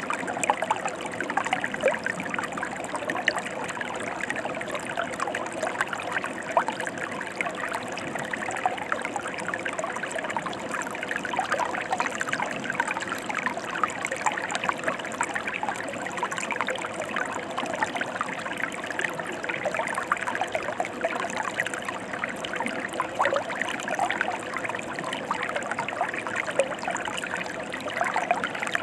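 Mountain river water flowing: a steady rush dotted with many small splashes and trickles.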